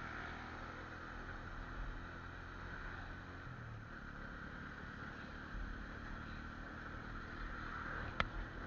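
Motorcycle engine running steadily while under way, with steady rushing noise. A single sharp click comes near the end.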